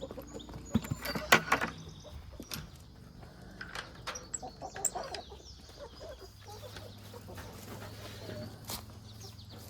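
Laying hens clucking, with a few sharp knocks and clicks about a second in.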